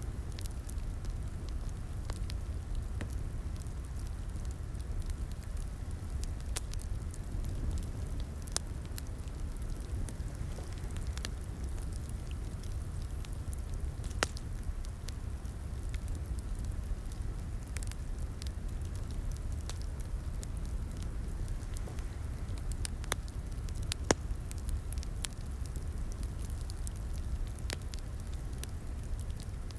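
Wood fire crackling in a fireplace: a steady low rumble of flames with irregular sharp pops and snaps, the sharpest about 14 and 24 seconds in.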